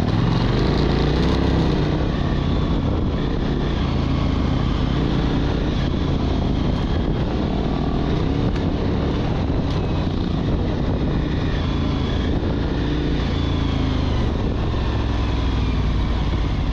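Husqvarna 701 Enduro's big single-cylinder engine running under way, its revs rising and falling again and again as the bike is ridden off-road.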